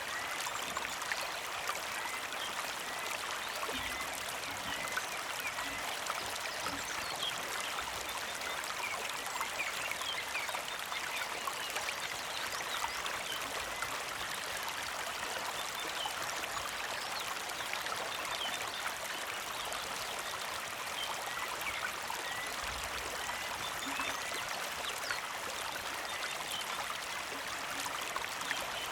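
Small mountain creek flowing and trickling steadily over rocks. A bird's short chirps repeat in a quick run at the start and again later.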